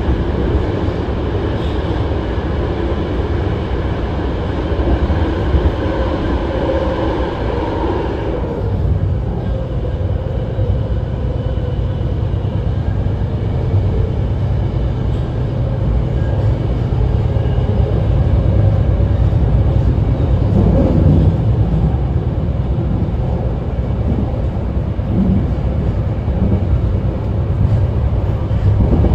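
BART Legacy Fleet electric train running at speed, heard from on board as a steady low rumble of wheels on rail. Higher-pitched tones ride over the rumble and stop suddenly about eight seconds in.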